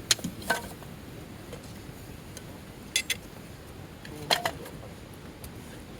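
Sharp wooden knocks from batoning firewood: a knife driven into the wood by strikes of a baton. Two knocks come near the start, a pair about three seconds in, and the loudest knock about four and a half seconds in.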